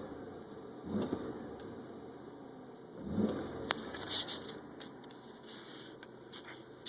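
Car engine revved in short blips: three quick rises and falls in pitch near the start, about a second in and about three seconds in, each dropping back to a low idle. A high hiss follows around four seconds in, with a couple of sharp clicks.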